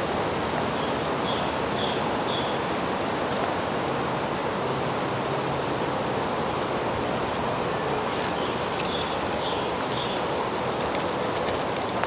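Two short phrases of high, thin birdsong from a small songbird, one about a second in and another about nine seconds in, over a steady rushing background noise that is louder than the song.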